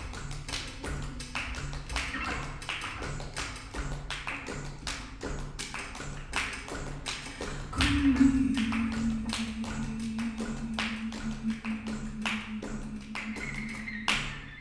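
Acoustic ensemble music: a cajón struck in a quick, steady rhythm under a ukulele and a repeating low line, with a long low note held from about halfway through. The music stops at the very end.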